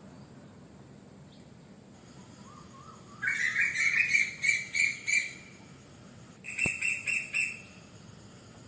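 A bird calling in two bursts of rapid repeated chirps, about five a second. The first burst lasts about two seconds and the second, a moment later, about one second. They sit over a faint steady background hum of insects.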